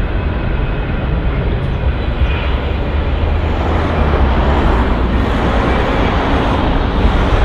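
Jet engine roar of a landing four-engined Airbus A340, a steady rush with deep rumble, swelling louder about halfway through.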